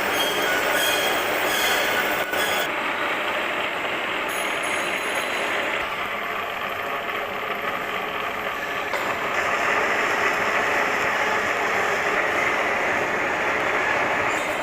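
Lathe running with a steady mechanical noise. The sound shifts slightly about three seconds in and again about nine seconds in.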